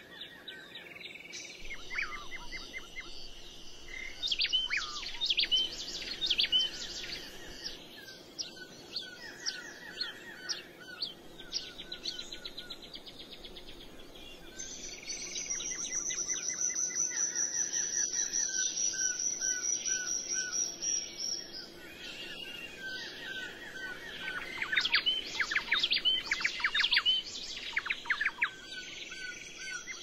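Songbirds chirping and calling, with flurries of quick chirps in the first few seconds and again near the end, and a high, steady trill lasting several seconds in the middle.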